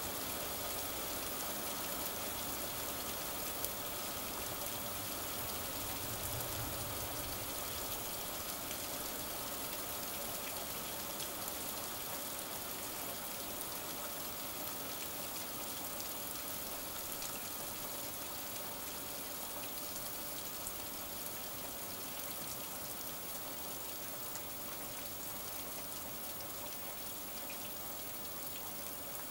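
Steady rain falling, a dense hiss with scattered drop ticks, easing slightly in level toward the end.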